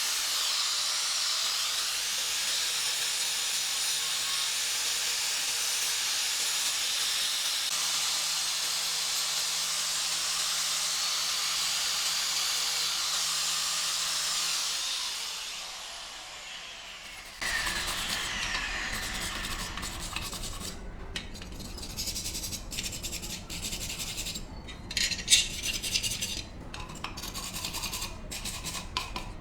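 A steady high hiss that fades out about fifteen seconds in, then, after an abrupt change, irregular scraping and rubbing strokes on a surface by hand, with one sharper, louder knock about 25 seconds in.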